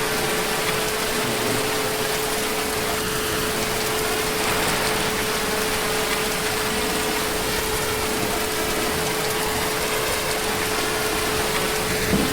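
Heavy rain falling steadily, an even hiss, with a constant faint tone running underneath.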